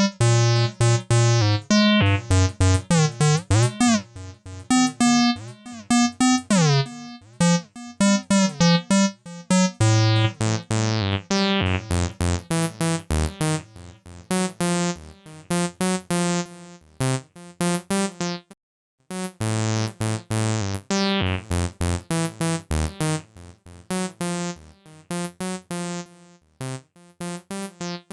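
Acid synth bassline sequenced on AcidMachine: a fast run of short, staccato notes with a deep bass and squelchy resonant filter sweeps that bend the tone up and down. The pattern drops out for a moment about two-thirds of the way through, then comes back.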